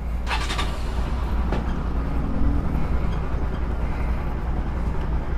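A motor vehicle engine, most likely the vlogger's motorcycle, running steadily with a constant low hum, with a couple of light clicks in the first second and a half.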